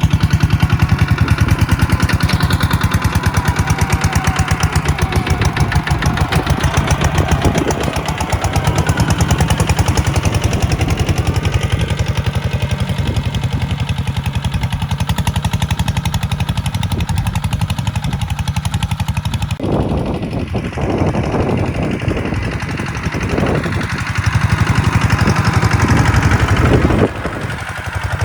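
A tractor's diesel engine running steadily with a fast, even chugging beat, which becomes rougher and more uneven about two-thirds of the way through.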